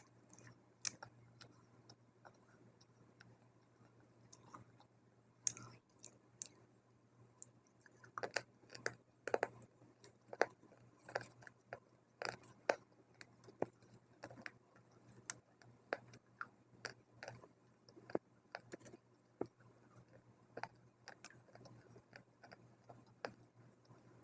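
Close-up biting and chewing of dry multani mitti (Fuller's earth clay): irregular sharp crunches, coming thick and fast for a few seconds in the middle and sparser before and after.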